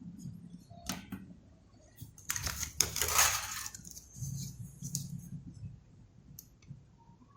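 Small tools and metal parts being handled and set down on a workbench: a few light clicks, then a louder rattling clatter about two to three seconds in.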